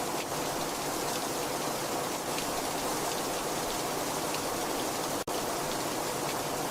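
Very heavy rain falling steadily, a dense even hiss with scattered drop impacts. It cuts out for an instant about five seconds in.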